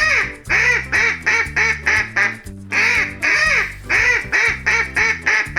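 Duck quacking over and over in quick runs of short quacks, about three a second, with a brief pause about two and a half seconds in. Children's background music with a steady bass line plays underneath.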